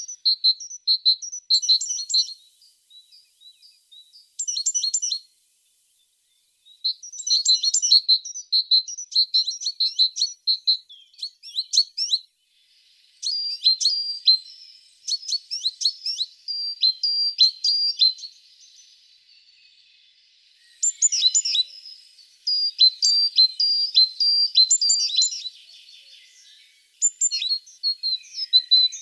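A tit singing: phrases of quick, repeated high notes lasting a few seconds each, broken by short pauses.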